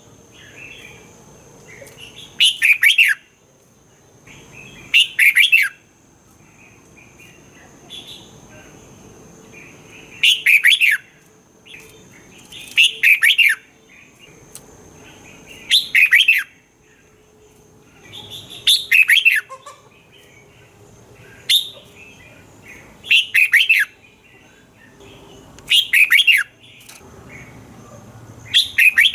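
Red-whiskered bulbul singing: short loud warbling phrases repeated about every two to three seconds, with softer chirps between them. A faint steady high whine runs underneath.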